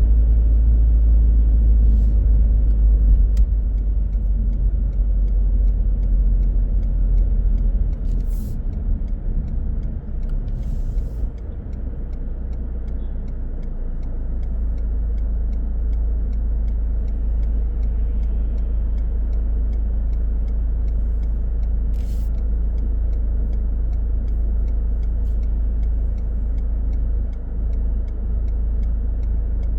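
A car driving, with a steady low rumble of road and engine noise. The rumble eases between about 8 and 14 seconds in and then holds steady, and a few brief clicks come through.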